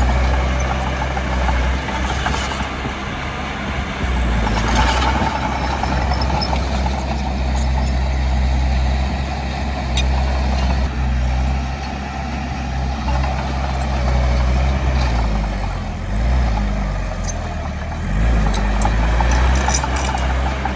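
Diesel engine of heavy earthmoving machinery running steadily under load. Its pitch dips and rises a few times in the latter part, with scattered sharp clicks and clanks.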